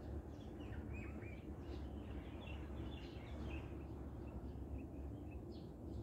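Small birds chirping: a scatter of short high chirps, busiest in the first half, over a steady low rumble.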